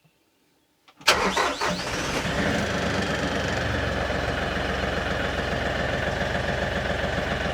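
LS XR3140H compact tractor's diesel engine being started. It is silent for about a second, then catches suddenly and settles into a steady idle.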